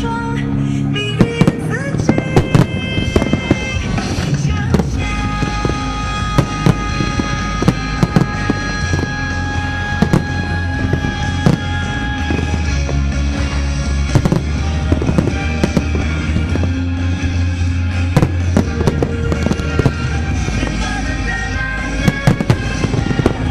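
Fireworks bursting, with many sharp cracks and bangs at irregular intervals throughout, over loud music with sustained tones and a heavy bass.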